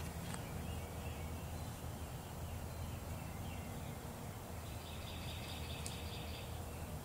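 A bird's rapid chattering call, lasting about two seconds, starting about four and a half seconds in, over a steady low outdoor rumble.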